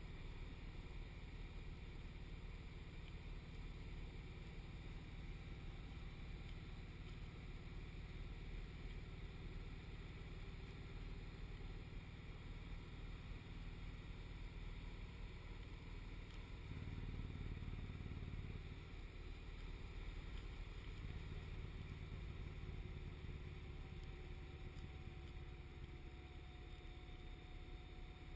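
Motorcycle engine running at road speed under a steady rush of wind. The low engine sound swells louder twice, for a couple of seconds each, past the middle.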